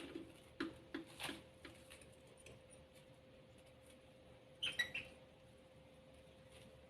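Small pet birds stirring in their cage: a few faint clicks, then a brief burst of squeaky chirps about five seconds in.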